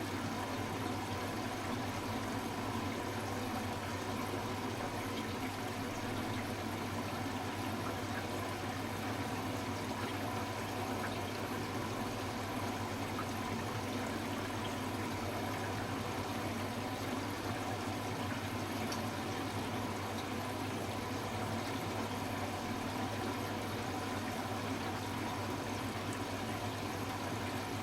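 Hoover H-Wash 300 Plus washing machine running in its rinse programme, with steady flowing water and a constant low hum.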